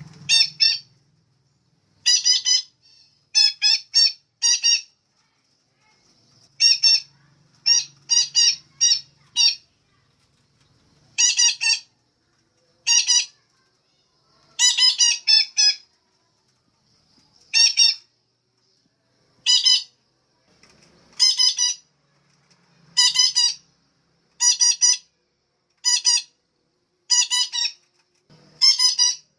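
Female parakeet (betet) calling: short, harsh squawks, singly or in quick runs of two to four, repeated every second or two.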